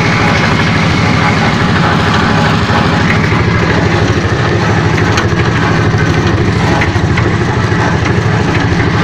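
A vehicle engine running steadily, with a fast, even low pulsing and a broad noise over it.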